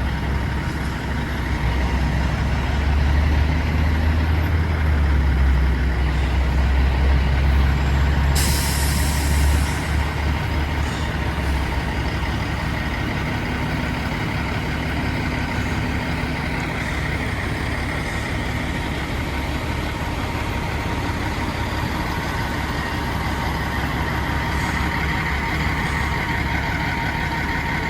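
Fire truck's diesel engine running with a heavy rumble, louder through the first ten seconds, then settling to a steady idle. About eight seconds in, the air brakes let out a sharp hiss lasting about a second.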